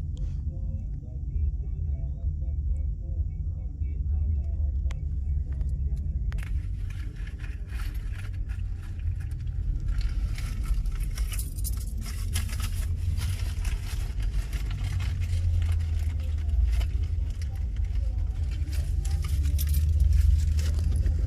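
Vehicle engines running with a steady low rumble. A rough crackling hiss joins in about six seconds in and carries on.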